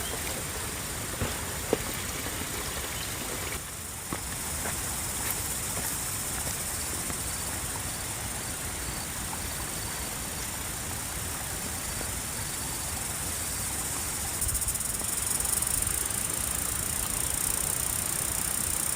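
Insects chirring high and steady over an outdoor background hiss, the chirring growing louder about three-quarters of the way through.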